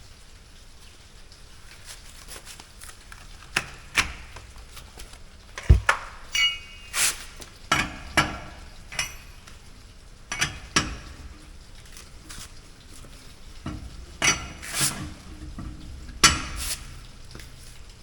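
Metal hand tools being handled, clinking and clanking: about fifteen irregular sharp knocks, a few ringing briefly.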